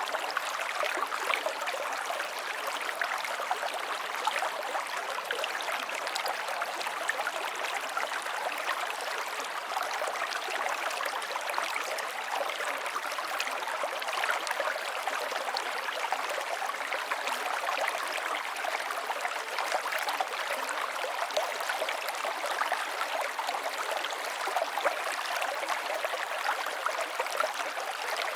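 River water flowing over stones, a steady rushing with fine splashing and bubbling and little low rumble.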